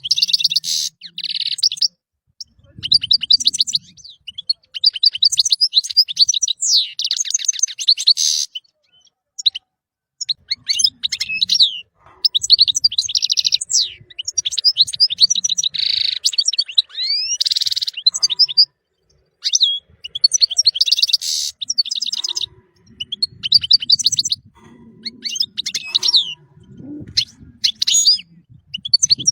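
European goldfinch singing: rapid, tinkling twittering phrases a few seconds long, broken by short pauses.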